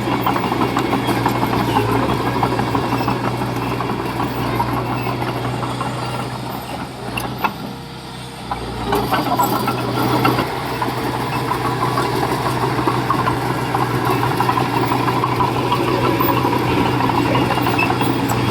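Heavy construction machine's diesel engine running under load with a busy mechanical rattle. It eases off for a couple of seconds in the middle, then picks up again.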